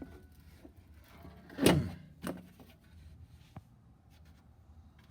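Handling noise from a piece of old valve electronic equipment being moved: a short sliding scrape a little under two seconds in, a smaller one soon after, then a faint click.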